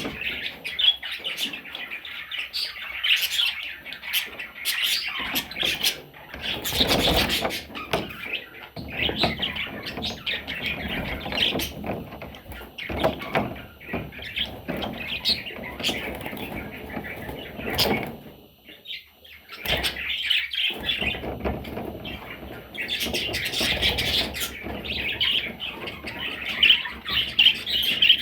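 Budgerigar chattering and warbling with fast chirps and clicks, almost without pause, easing off briefly about two-thirds of the way through.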